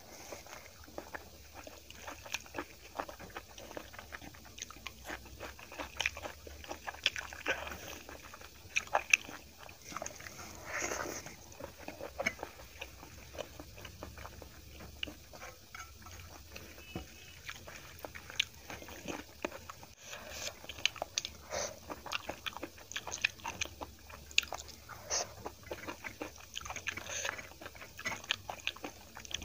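Close-up eating sounds: chewing and crunching of hand-fed mouthfuls of rice and kadhi, with the wet squelch of fingers mixing food on a steel plate. Many small irregular clicks and crunches, busier in a few stretches.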